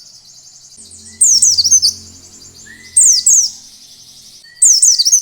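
A pleci (white-eye) singing in three short bursts, each a quick run of high, sharply falling notes.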